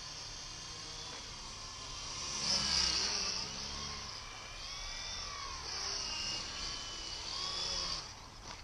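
Two WLToys V912 RC helicopters flying, their electric motors and rotors giving a high whine that rises and falls in pitch as the throttle changes. The whine drops away suddenly near the end.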